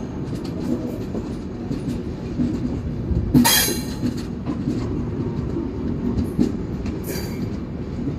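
Wheels of an express train's LHB coaches running on the rails: a steady rumble with scattered clacks over the rail joints, and a brief high-pitched hiss or squeal about three and a half seconds in, with a shorter one near the end.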